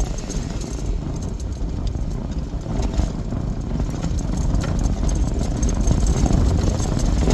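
Jeep engine running steadily while the vehicle is driven slowly, a continuous low rumble.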